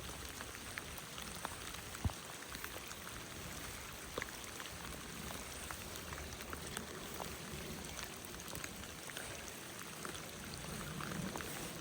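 Rain falling, with scattered close drops ticking over the steady flow of a creek; one sharper tap about two seconds in.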